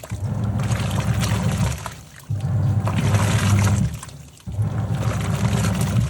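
Top-loading washing machine agitating its load: the motor hums in strokes of about a second and a half as the pulsator drives one way and then reverses, three strokes in all, with water sloshing and splashing in the tub throughout.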